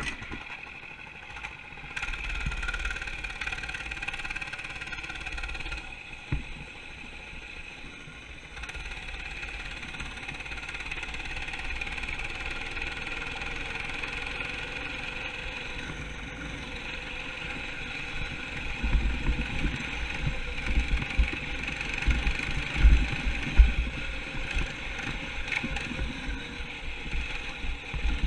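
Minibike's small engine starting with a sharp burst, then running steadily, its pitch stepping up about two seconds in and again near the middle. In the second half, wind buffets the microphone under the engine as the bike rides along.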